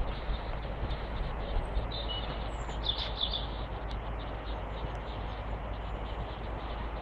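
A short run of high bird chirps, about two to three seconds in, over steady outdoor background noise with a low rumble.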